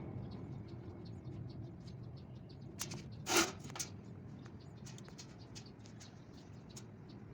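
Faint small clicks and scratches of light hand work, with one louder brief scrape about three and a half seconds in.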